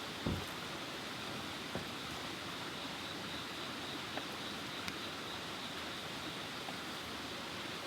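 A steady rushing noise, with a low thump just after the start and a few faint clicks.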